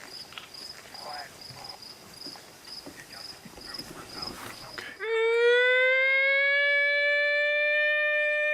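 Crickets chirping steadily with faint murmuring voices, then about five seconds in a single long howl starts suddenly, gliding up a little before holding a steady pitch.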